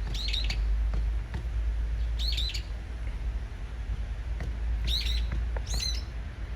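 Brown-eared bulbul calling: four short, shrill calls, the last two close together, over a steady low rumble.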